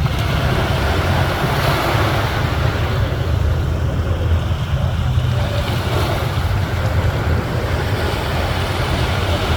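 Sea waves breaking and washing ashore, with wind buffeting the microphone as a steady low rumble underneath.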